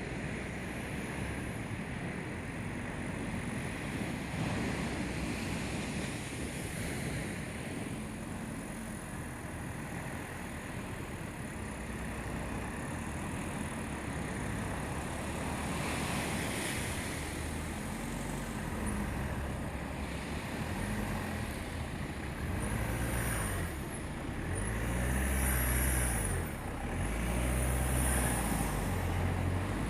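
Car engine running, revved up and down several times near the end, over steady wind-like noise.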